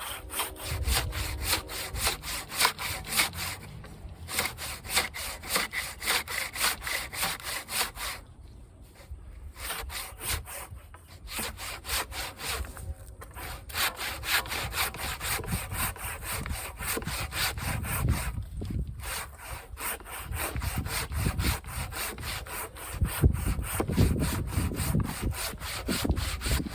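Husky 20-inch fine-tooth hand saw cutting through a dried tree-trunk log with steady back-and-forth strokes, pausing briefly a few times.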